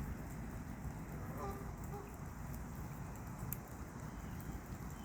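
Steady patter of rain, with a few faint clicks of a duck's bill pecking at feed.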